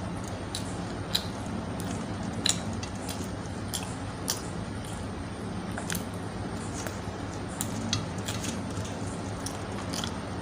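Close-up chewing and wet mouth sounds of a man eating roti and curry by hand, with scattered short clicks, over a steady low hum.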